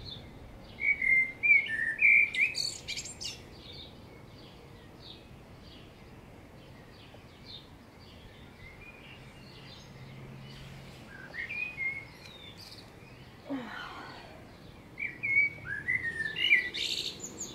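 Small birds chirping and singing in quick, high phrases, in bursts about a second or two in and again near the end, with a quieter stretch between.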